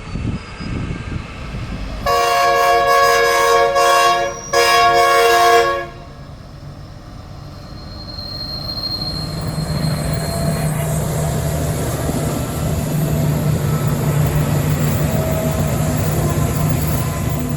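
Train horn sounding two long blasts with a short break between them, the first a little over two seconds and the second shorter, each a multi-note chord. Then the train's rumble builds as it approaches and runs past.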